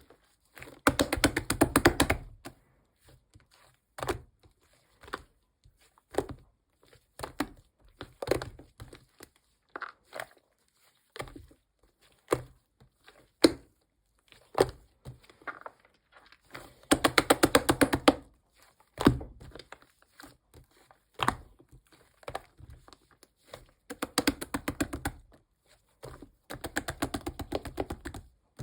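White slime being mixed, giving single wet pops and clicks about once a second, with four stretches of rapid crackling pops a second or two long.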